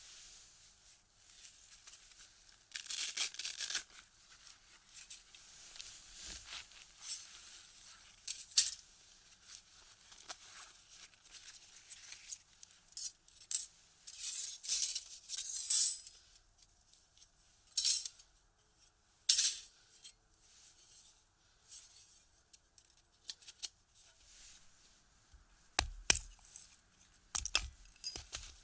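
Irregular snaps, clicks and scraping or tearing sounds, with two heavier knocks near the end, from kindling and wood being handled to start a fire in a small box stove.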